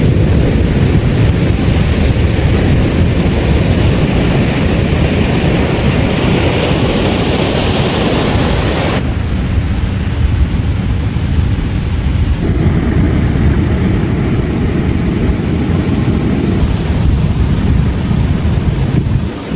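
Loud steady roar of wind and water noise, with no distinct events in it. Its tone changes abruptly about nine seconds in, when the hiss drops away, and again a few seconds later.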